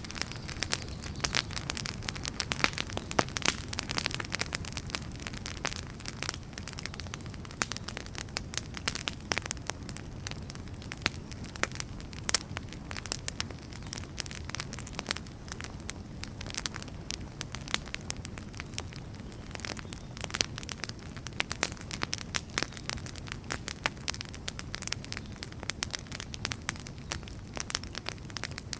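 Wood fire burning with frequent irregular crackles and sharp pops over a low, steady rumble of flame.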